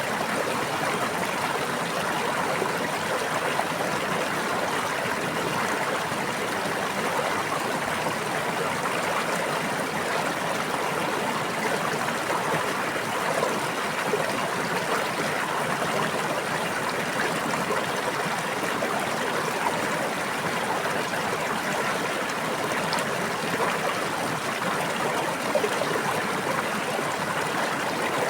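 Stream water babbling, a steady, even rush with no break or change.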